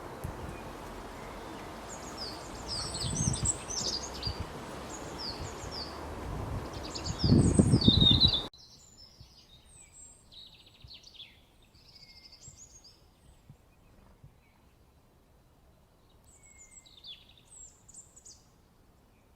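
Small songbirds chirping in short, high calls. For the first eight seconds or so they sit over a steady noisy background with low rumbles, loudest near the end of that stretch; the background cuts off abruptly, and the chirps go on over a much quieter background.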